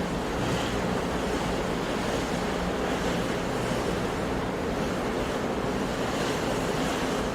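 Sea waves washing on a shore in a steady, continuous wash.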